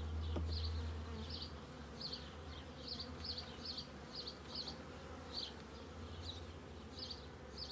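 Honeybees buzzing steadily around an open hive, with short high chirps repeating about twice a second.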